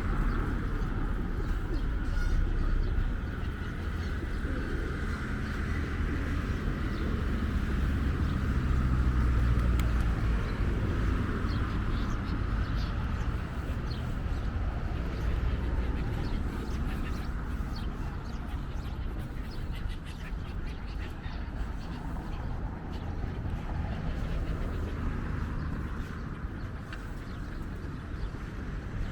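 Outdoor ambience with a low, steady engine rumble.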